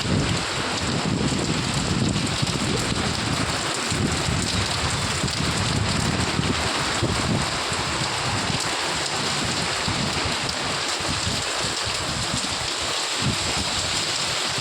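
Heavy rain falling steadily: a dense, even hiss, with an uneven low rumble underneath that fades after the first half.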